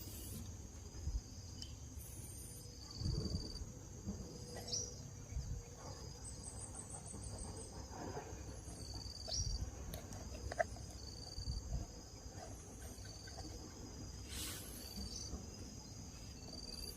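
Steady high-pitched insect drone, with short high chirps every second or two and low rumbling noise underneath.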